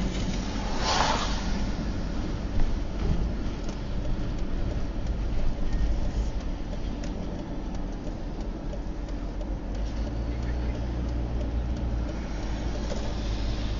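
Car engine and road rumble heard from inside a moving car, with a brief hissing whoosh about a second in.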